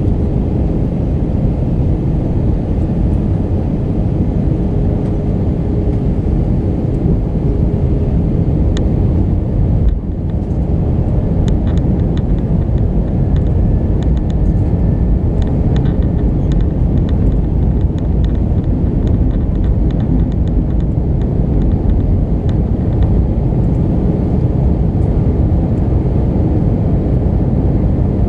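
Steady low rumble of engines and airflow inside the passenger cabin of an Airbus A319 in flight on approach, with a faint steady hum through it. A few faint ticks come in the middle stretch.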